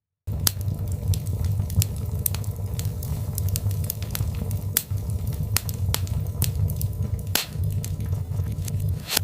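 Birchwood fire burning, with a steady low rumble of flame under constant crackling and several louder pops of the logs. It cuts in suddenly from silence right at the start.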